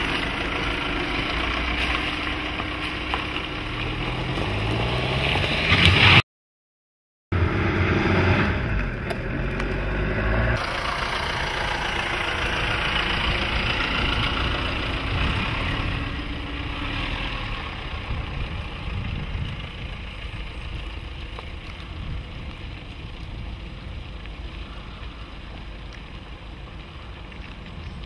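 Jeep Renegade Trailhawk's 2.0 Multijet four-cylinder turbodiesel running under load as the car drives off-road, its pitch rising for a few seconds. The sound drops out completely for about a second, then the engine and rolling noise carry on steadily and fade over the last part.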